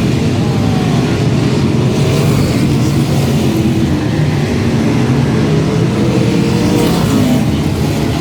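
Several sprint car engines running on the track at once, their pitches rising and falling against each other as the cars speed up and slow through the laps.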